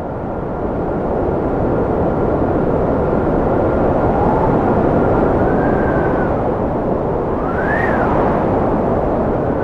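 Strong cold wind blowing, a dense rushing noise that builds over the first second or so. A thin steady whistle sits above it, and from about five seconds in, whistles rise and fall in arches.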